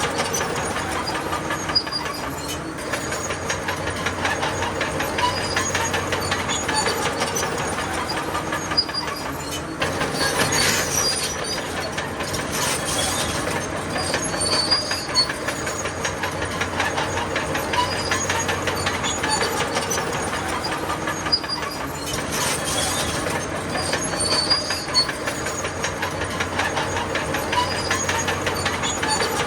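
Crawler bulldozer working: a heavy diesel engine running steadily under the dense clatter of steel tracks, with two brief louder rushes of noise, about ten seconds in and again near twenty-two seconds.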